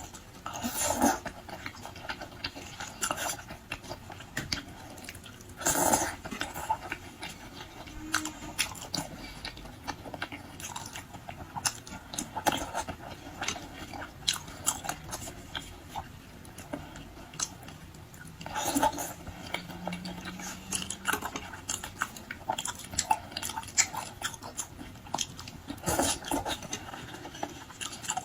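A person chewing and biting salmon close to the microphone: a steady run of wet mouth clicks, with louder bites about a second in, around six seconds, around nineteen seconds and near the end.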